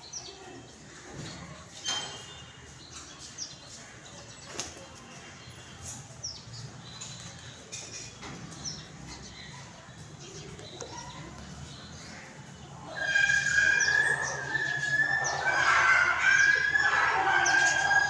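Birds chirping and calling, faint and scattered at first, then much louder about thirteen seconds in, a busy chatter of short high calls over a held shrill note.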